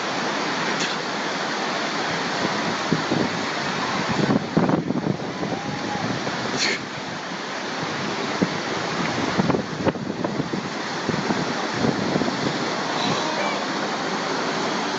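Loud, steady rushing noise like storm wind or water. A few brief thumps come around four to five seconds in and again near ten seconds.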